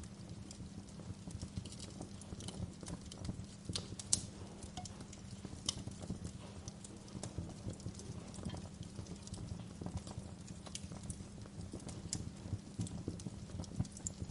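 Wood fire burning in a fireplace: a low, steady rumble of flames with irregular crackles and pops, one sharper pop about four seconds in.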